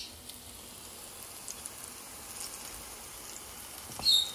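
Ripe plantain slices frying in oil in a nonstick pan: a steady soft sizzle with scattered small crackles. A brief sharp high sound near the end.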